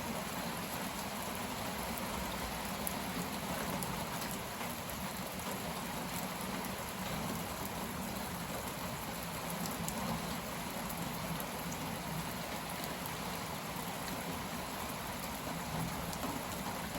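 Torrential rain pouring steadily, the downpour that comes with a passing cold front.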